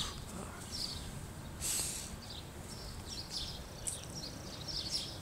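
Small birds chirping in short, high calls scattered through, over a steady low outdoor rumble, with a brief hiss a little under two seconds in.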